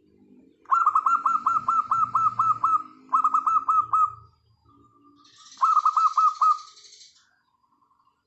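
Bird calls: three bouts of loud, rapid, down-slurred notes, about eight a second, over softer, low cooing of a zebra dove (perkutut).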